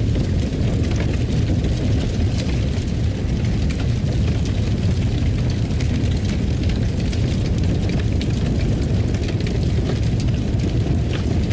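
Fire crackling in a fireplace: a steady low rumble of burning with many small, scattered sharp pops.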